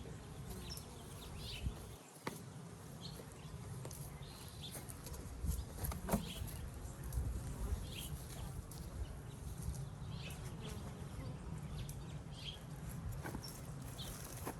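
Honeybees buzzing around an open hive, a steady low hum throughout. Short bird chirps are scattered over it, and a few sharp clicks come about 2, 6 and 13 seconds in.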